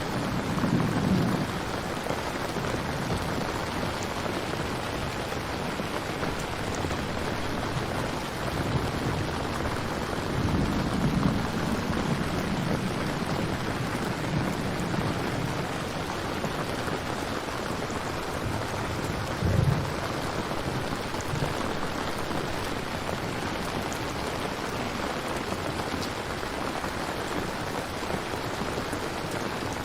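Steady heavy rain falling, with low rumbles of thunder swelling about a second in and again from about ten to twelve seconds, and a short low boom at about twenty seconds.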